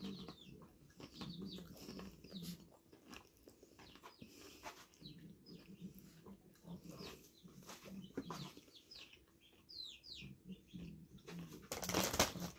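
Close-up crunching and chewing of tortilla chips (zesty Doritos), in a run of small crisp crunches. Near the end comes a louder, brief rustle of the chip bag.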